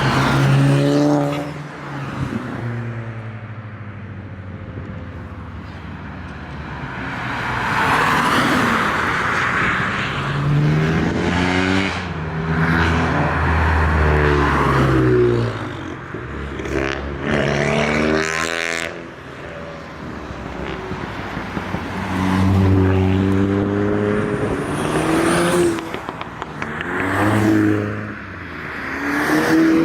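Tuned Volkswagen Group performance cars accelerating past one after another, their engines revving up and falling back as they shift.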